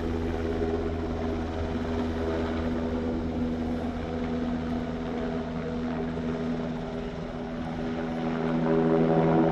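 Aircraft running nearby with a steady, droning hum of several tones, growing louder near the end.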